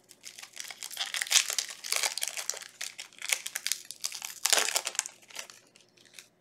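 Foil trading-card booster pack wrapper crinkling as it is handled and torn open, in an irregular run of crackles that dies away near the end.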